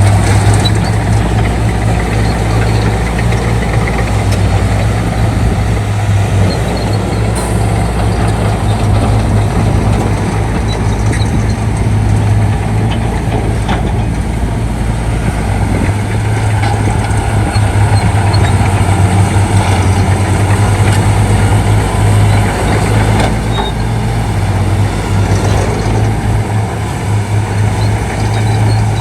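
Shantui D95 bulldozer's diesel engine running steadily, a loud deep drone that swells slightly now and then.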